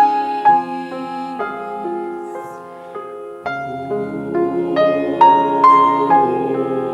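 Piano playing slow chords and a melody, each note struck and left to ring.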